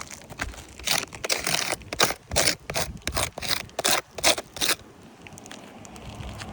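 Gritty scraping and crunching on asphalt roof shingles: a quick run of about a dozen short strokes that then stops.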